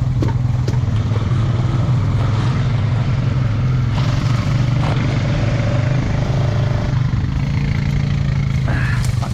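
ATV engine running steadily at a low, even speed, with a constant low hum.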